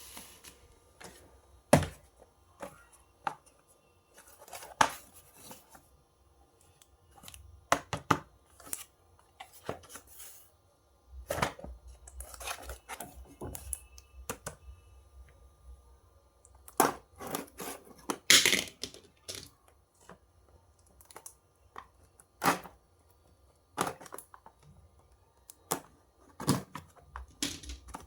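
Toy packaging being handled and opened by hand: scattered clicks and knocks with short bursts of rustling and tearing, separated by pauses, the loudest cluster a little past the middle.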